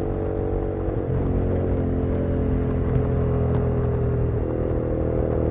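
Honda CBX 250 Twister's single-cylinder four-stroke engine running through an aftermarket Roncar exhaust at a fairly steady speed, its pitch lifting slightly about four seconds in.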